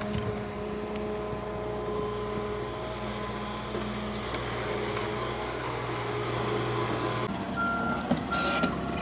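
Big excavator's diesel engine running steadily, its note changing about seven seconds in; a backing alarm then starts beeping in a steady rhythm, with a few metallic clanks near the end.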